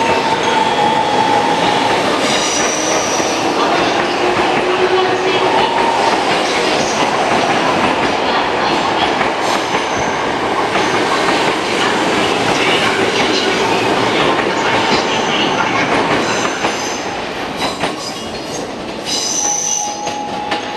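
Tokyo Metro 05 series chopper-control train pulling out of a station: wheels on rails, clattering over joints, with a few steady tones from the traction equipment. The sound thins out over the last few seconds as the train draws away.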